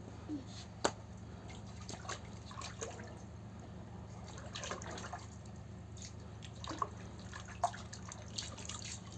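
Rainwater dripping and splashing lightly in irregular drops and small splatters, with a few sharper drips, over a steady low hum.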